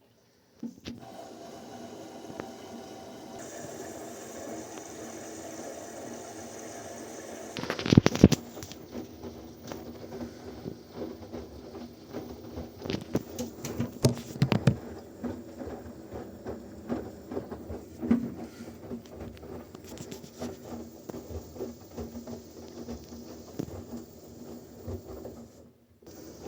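Washing machine running: a steady motor hum with loud knocking about eight seconds in, then irregular clicks and patter as the drum turns the wet laundry.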